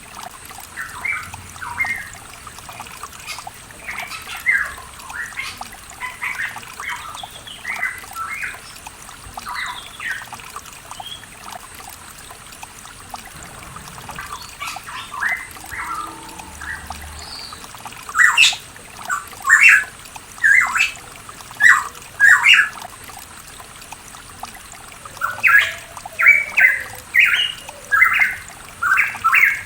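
Pitohui calling in short, repeated notes, louder and in quick runs about two-thirds of the way in and again near the end, over a steady trickle of running water.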